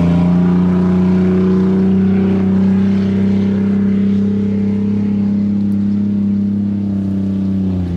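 Tuff truck's engine running hard at high, steady revs, the revs falling away near the end.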